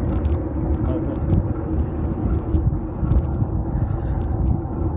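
Riding noise picked up by a handlebar-mounted phone on a fixed-gear bike: a steady low wind and road rumble, with frequent short sharp clicks and rattles from bumps.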